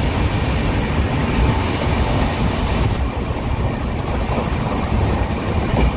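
Passenger express train running at high speed, around 130 km/h: a steady rumble of the coach's wheels on the rails, with a hiss of rushing air over it.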